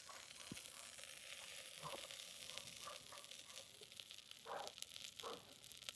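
Faint sizzling of a sandwich of bread, cheese and Maggi noodles being pressed on a hot pan, a fine steady crackle.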